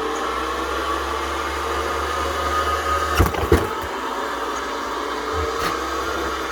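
Tennis ball machine's motor running steadily with a low hum and a faint whine. Two sharp knocks come close together about three seconds in, and a weaker one follows a couple of seconds later.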